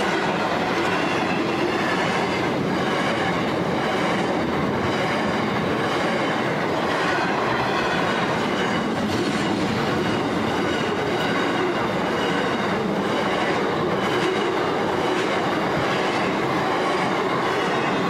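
Loaded container wagons of a long freight train rolling past at a steady speed: the continuous noise of steel wheels on rail, with irregular clacks as wheelsets pass over joints at the crossing.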